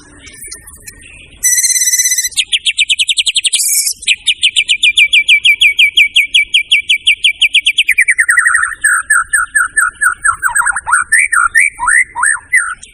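White-rumped shama (murai batu) in full song: a long, fast trill of rapidly repeated high notes, switching about eight seconds in to a lower run of falling, swooping notes.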